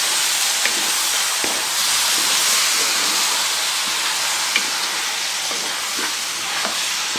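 Raw chicken pieces and sliced onions sizzling in hot oil in an aluminium pot as they are stirred with a wooden spoon: a steady hiss with a few faint ticks.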